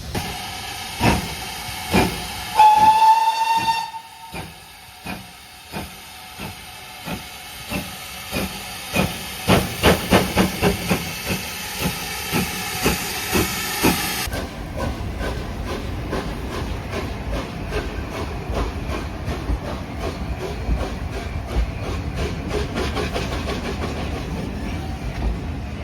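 Steam locomotive sounding a short whistle, then blasting exhaust beats that quicken fast into a rapid stutter as its driving wheels slip on the rail. The rapid beats run on over a steady hiss of steam.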